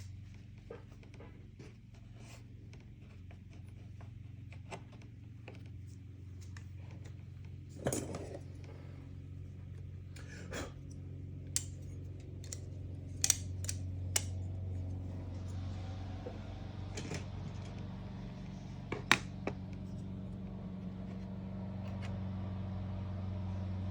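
Scattered clicks and light knocks of small plastic and metal parts being handled while a transceiver's display head is reconnected, over a steady low hum that grows slightly louder after about fifteen seconds.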